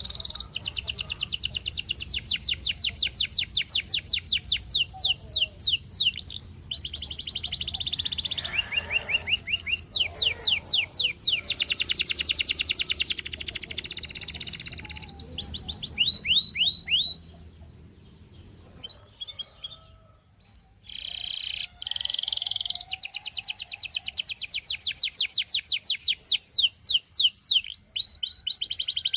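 Canary singing long, fast trills of rapidly repeated high notes, one tour after another, with a break of a few seconds about two-thirds of the way through before the song picks up again.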